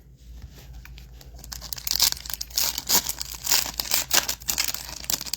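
Foil wrapper of a Topps Chrome football card pack being torn open and crinkled, a quick run of crackling rips that gets louder about two seconds in.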